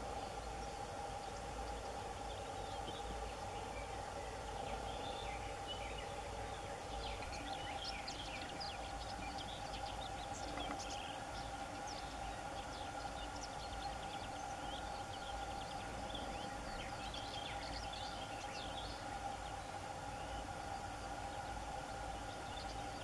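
Birds chirping: many short, high calls, thickest in the first half, over a steady hum.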